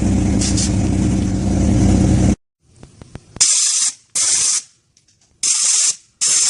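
A car engine running loudly and steadily, cut off suddenly a little over two seconds in. Then come four short bursts of sharp hissing, each about half a second long, with silence between them.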